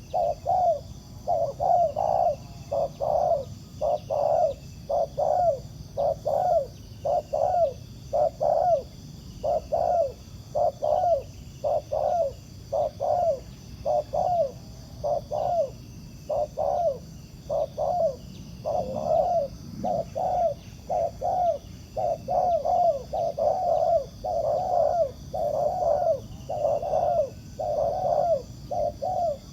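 Spotted dove giving its rapid bowing coo (the 'gù'): short, low, hollow coo notes repeated about one to two a second, without a break.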